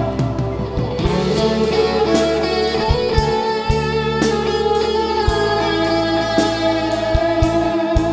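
Rock music: an electric guitar plays held notes over bass and drums.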